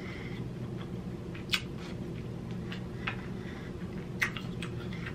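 Close-miked eating of king crab meat: wet chewing and mouth sounds with a handful of short sharp clicks, over a steady low hum.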